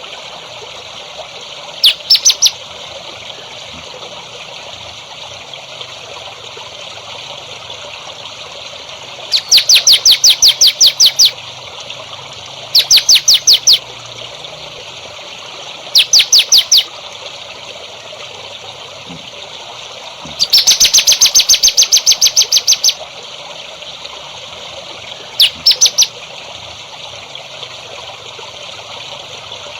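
A songbird calling in six bursts of rapid, sharp repeated notes, each burst half a second to two seconds long, with pauses of a few seconds between them. Trickling water runs steadily underneath.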